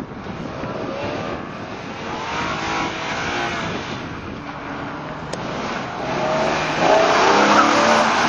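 E46 BMW M3's straight-six engine revving up and down as the car accelerates and slows through an autocross cone slalom, the pitch rising and falling again and again. It gets louder over the last couple of seconds as the car comes close.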